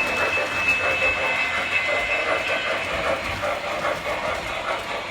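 Model train running along the track: a steady rolling sound with fine clicking from the wheels on the rails.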